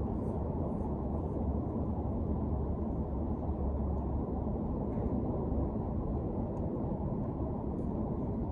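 Pressure washer running: a steady, low, muffled drone with no change.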